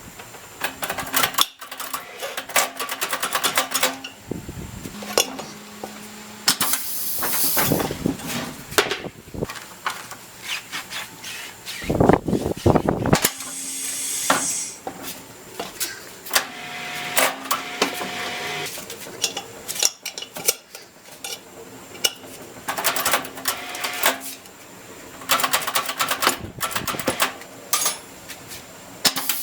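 Tyre-changing work on a car: metal clanks and knocks from tools and wheel parts, runs of rapid rattling clicks, and a couple of short bursts of compressed-air hiss.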